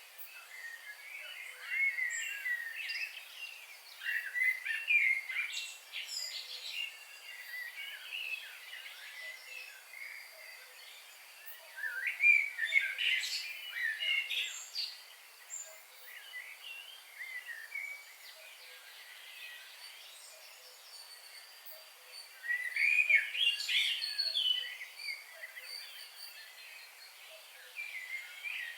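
Several wild birds chirping and singing, with overlapping quick high warbles and twitters. The calls come in louder flurries about two seconds in, around twelve seconds in and near the end, with quieter scattered calls in between.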